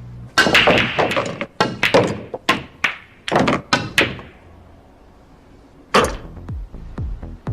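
A rapid run of hard clacks and knocks from pool balls striking one another and the table. After a pause, a last strike lands near the end and electronic music with a thumping beat starts.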